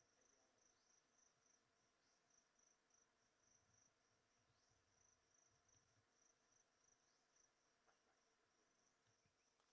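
Very faint, steady insect chirping: a high pulsing trill at about three pulses a second.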